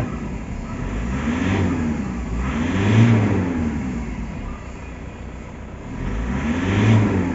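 Toyota Fortuner diesel engine idling and revved three times, its pitch rising and falling with each blip of the throttle, the loudest about three seconds in and the last near the end. The engine is running again after a no-start that was cured by refuelling and priming the fuel pump.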